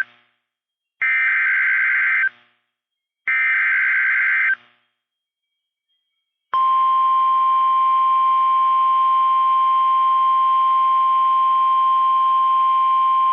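NOAA Weather Radio emergency alert signal. Two short buzzy bursts of SAME header data, then a pause. About halfway in, a steady 1050 Hz warning alarm tone starts and holds. Together they mark the start of a severe thunderstorm warning broadcast.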